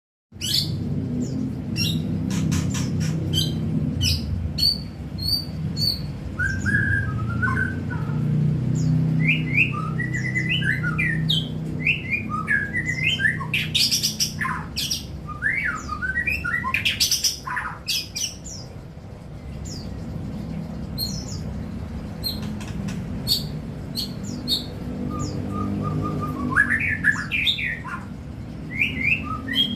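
White-rumped shama (murai batu) singing a long run of varied whistled phrases, quick chirps and sharp clicking notes, over a steady low background hum.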